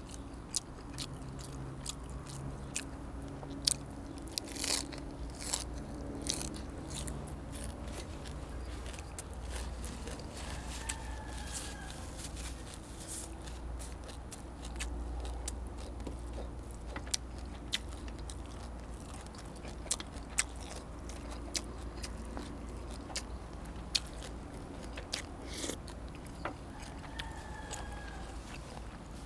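A person eating close to the microphone, chewing with many sharp, crunchy bites scattered through. The food is pork ribs, some with soft cartilage, and fresh raw vegetables.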